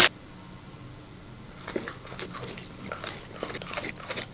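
Close-up mouth sounds of someone chewing Dubai chocolate. After about a second and a half of quiet, a run of small, irregular crunchy crackles begins.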